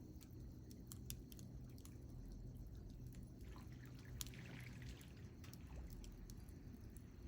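Wood campfire crackling, with scattered sharp pops over a low steady rumble and a brief hiss about four seconds in.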